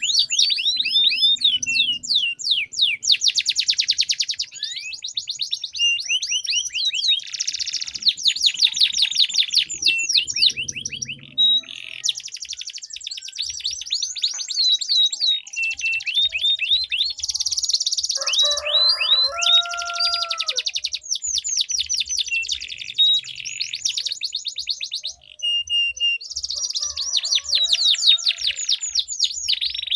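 Domestic canaries singing long rolling trills of rapid repeated notes, phrase after phrase with hardly a break. About nineteen seconds in, a lower, steadier call lasts about two seconds.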